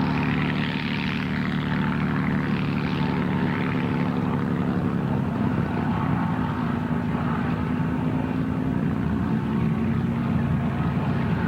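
North American Harvard trainers' Pratt & Whitney R-1340 radial engines droning steadily in a flyby, with the sharper upper edge of the sound fading after about four seconds.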